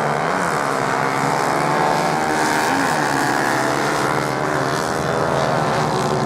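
Several racing motorcycle engines running at high revs at once, a steady blend of engines at slightly different, wavering pitches.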